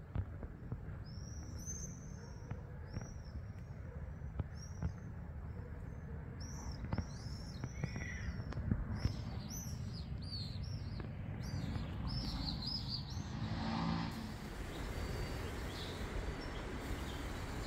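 Small birds chirping, many short high calls in quick runs, over a steady low background rumble. The chirping stops about three-quarters of the way through, and a steady hiss and rumble takes over.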